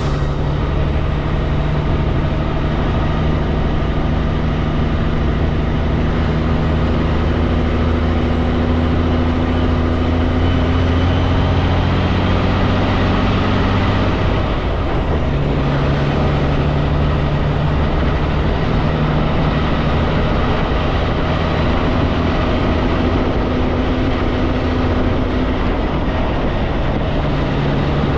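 Kenworth K200 road train's Cummins diesel engine running under way, with a steady drone and road noise as heard from the cab. About halfway through, the engine note breaks off briefly and then picks up again.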